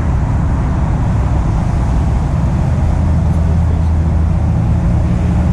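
An engine running steadily with a low hum, under a constant rushing noise.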